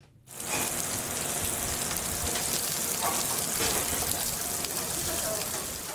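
Venison hamburger patties sizzling in hot oil in a frying pan: a steady crackling hiss that starts a moment in.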